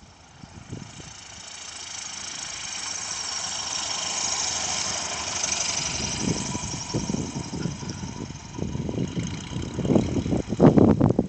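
Light single-engine propeller airplane flying past, its engine sound rising to a peak about four to five seconds in and then fading. Wind buffets the microphone in the second half, loudest near the end.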